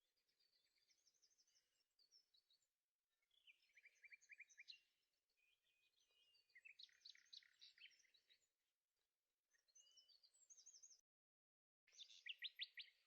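Faint songbirds singing: a string of short trilled phrases and chirps, broken by a sudden total dropout to silence lasting about a second near the end.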